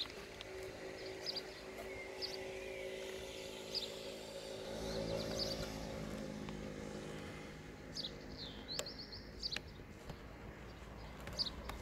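Short bird chirps every second or two over a steady low engine hum that swells for a few seconds midway, as a vehicle passing would. There is one sharp click near the end, from the wire and connector being handled at a plastic junction box.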